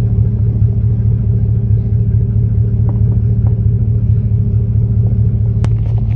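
A vehicle engine idling close by: a steady, low, even drone that neither rises nor falls, with a few faint clicks.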